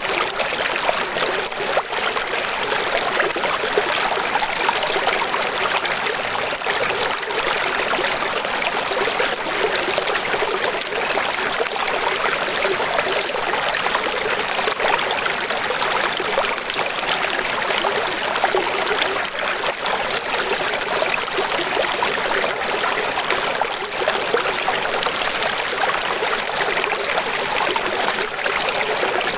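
Flowing water rushing steadily and evenly, with little deep rumble and no breaks.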